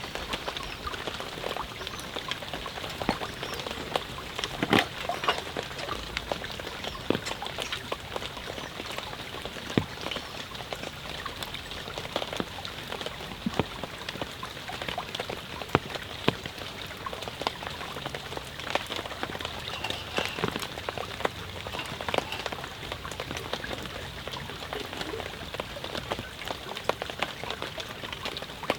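Steady rain falling, with frequent sharp clicks and pops scattered irregularly through it.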